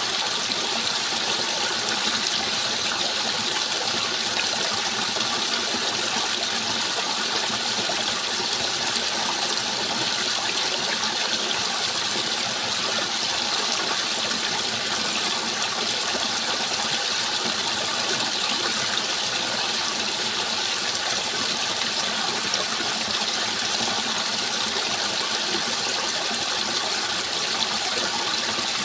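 Steady rushing and splashing water, unchanging throughout.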